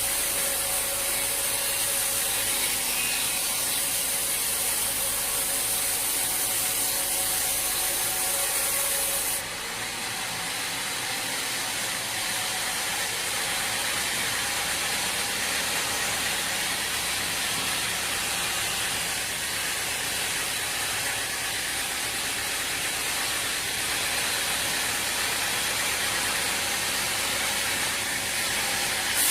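Sawmill machinery running with a steady mechanical clatter and hiss. The sound changes abruptly about nine seconds in, then carries on at much the same level.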